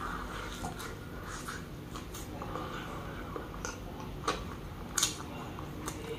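Close-miked mouth sounds of a man chewing a mouthful of mutton adobo and rice: wet smacks and small clicks scattered throughout, with two louder ones about four and five seconds in.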